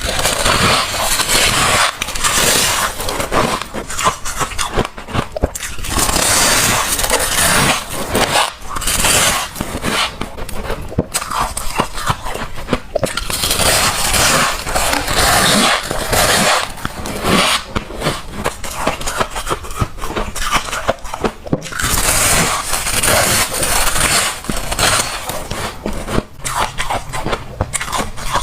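Close-miked crunching of freezer frost being bitten and chewed in big chunks: a dense run of crisp crunches with short pauses between bites.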